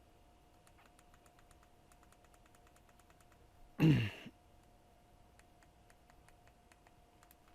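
Faint plastic clicks of TV remote control buttons being pressed over and over, with a steady faint electrical hum. About four seconds in comes one short sigh that falls in pitch, the loudest sound here.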